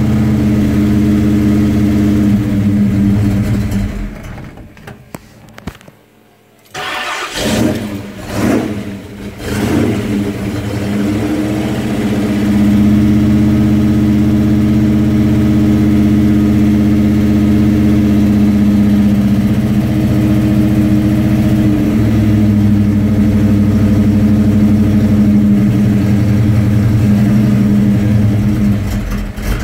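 Ford 351 Windsor V8 in a 1964 XM Futura coupe, heard from the driver's footwell. It idles, stops about four seconds in, and restarts suddenly near seven seconds. It is revved three times, then settles into a steady idle.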